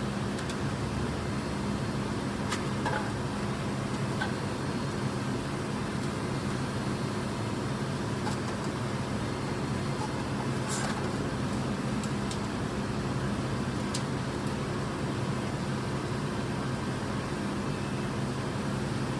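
A steady mechanical hum with an even background hiss and a few faint, short clicks.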